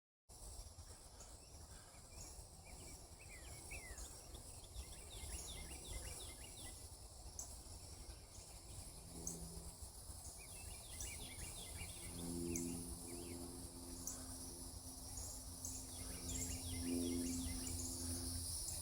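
Outdoor insect chorus: a steady high buzz with a regular tick a little over once a second, joined three times by bursts of quick, falling bird chirps. A low rumble runs underneath, and a faint low hum comes in about halfway through.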